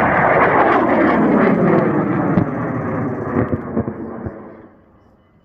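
Large high-power amateur rocket motor at full boost, a loud rushing roar with scattered crackles that deepens and fades away over the last second as the rocket climbs off the pad.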